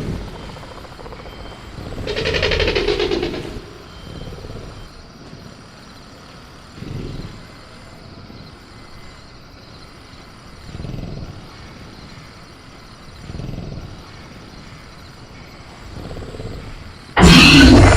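Sound-designed velociraptor sounds: a growl about two seconds in, then low rumbling breaths every few seconds, over a faint steady high insect-like tone. A sudden loud burst, a snarl or the cage being rattled, comes in near the end.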